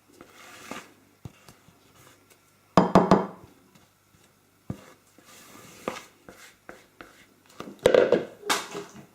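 Spatula scraping sponge batter out of a mixing bowl into a pudding basin, with clattering knocks of utensil and bowl about three seconds in and again near the end.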